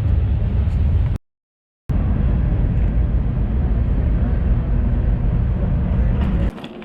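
Freight train rumbling past: a loud, steady low rumble, cut off briefly about a second in and again suddenly near the end.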